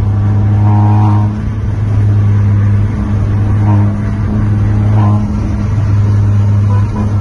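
Volkswagen Golf TSI engine with a sport exhaust, droning steadily at constant revs while the car drives, with a few brief dips in loudness.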